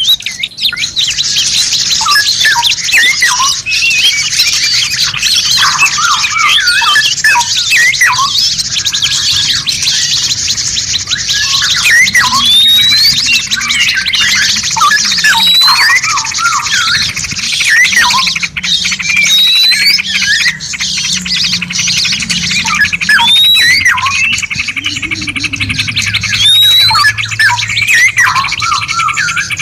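Dense, unbroken mix of several songbirds' chirps, trills and whistles layered together, as in a masteran song-training track for cage birds. From about halfway through, a short upward-hooked whistle repeats every couple of seconds over the chorus.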